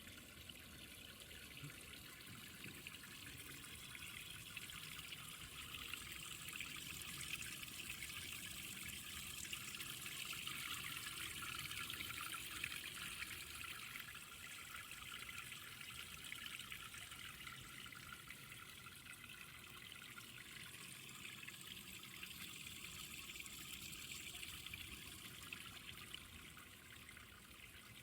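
Water from a tiered outdoor garden fountain trickling and splashing steadily down its curved tiers.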